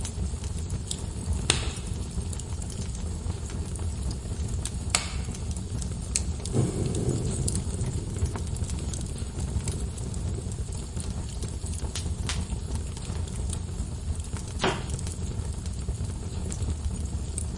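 Log fire in a fireplace crackling, with a few sharp pops from the burning wood over a steady low rumble.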